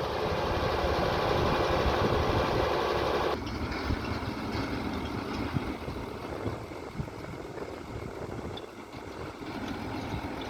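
Heavy-equipment diesel engine running steadily. About a third of the way in the sound drops suddenly to a quieter, lower rumble.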